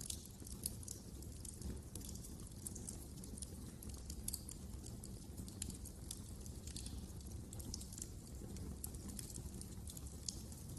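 Wood fire crackling in a fireplace: frequent, irregular sharp pops and snaps over a low, steady rumble.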